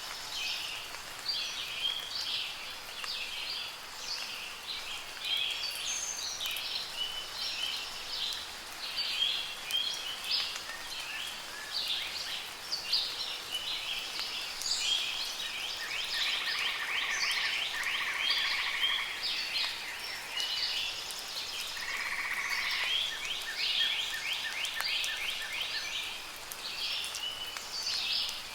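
Many birds chirping and singing at once in a busy, overlapping chorus, with a couple of longer trills in the second half, over a soft hiss of light rain.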